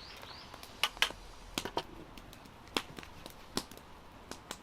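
Wood bonfire crackling: sharp, irregular pops and cracks, about eight in four seconds, the loudest a pair about a second in.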